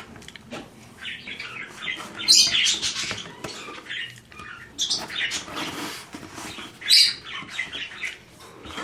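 Pet birds in a small room: short, irregular chirps and squawks mixed with scratching and rustling, loudest in a few brief bursts.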